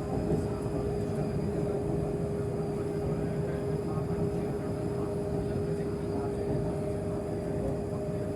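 MTR East Rail line R-train running along the track, heard from inside the carriage: a steady rumble with an even, unchanging hum.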